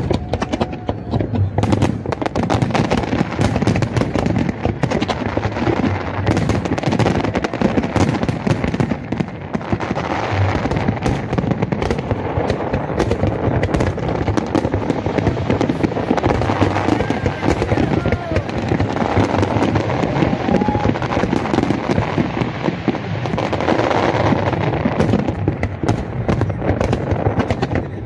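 Fireworks display going off continuously: dense, rapid crackling and popping bursts with heavier bangs among them, never pausing.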